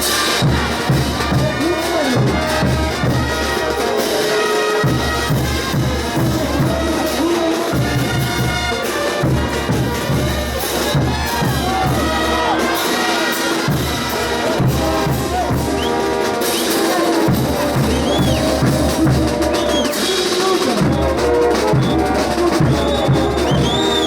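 Bolivian brass band playing ch'uta carnival music: brass over a steady pounding bass drum and percussion, with crowd noise, and short high rising-and-falling glides over the top in the last third.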